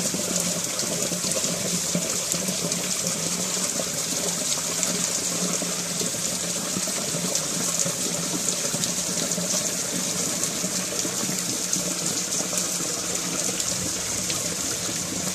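Heavy rain, a steady dense hiss of drops striking stone paving and clay roof tiles, with runoff water spilling over a stone step.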